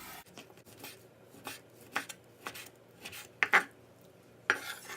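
Knife slicing grilled beef on a cutting board: a run of short, irregular cuts, about two a second, the loudest about three and a half and four and a half seconds in.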